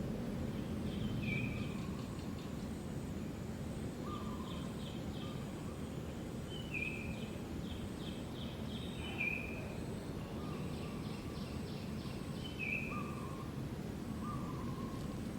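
Outdoor ambience: a steady low rumble with small birds calling over it in short chirps and quick trills, repeated every second or two.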